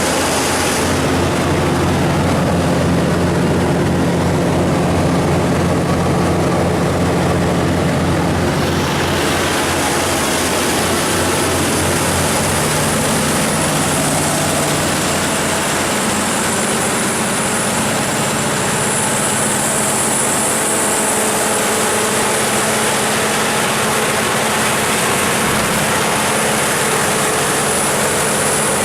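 Cummins NTA-855-G2 turbocharged inline-six diesel of a 350 kW generator set, running steadily at constant speed. About nine seconds in, the low hum weakens and a higher rushing sound grows louder.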